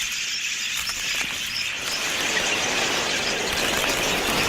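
A large flock of wild budgerigars chattering: a dense, continuous high twittering made of countless overlapping chirps, with a broader rushing noise filling in beneath it from about halfway through.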